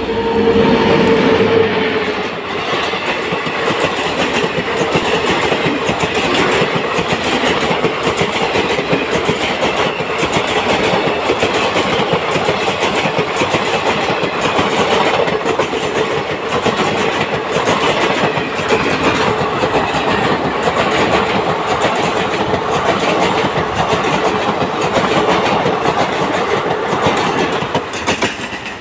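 An electric-hauled passenger express passing close by at speed without stopping: continuous loud rumble and clickety-clack of the coaches' wheels on the rails, with a steady tone standing out in the first couple of seconds as the locomotive goes by. The noise falls away near the end as the last coach passes.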